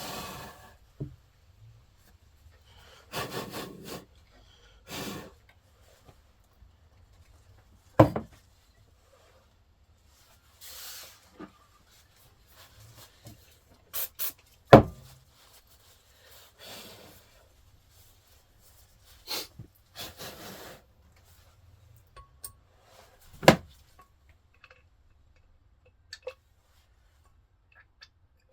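Intermittent short scraping and rubbing noises with a few sharp knocks in between, the loudest knocks about 8, 15 and 23 seconds in: parts and tools being handled and worked by hand.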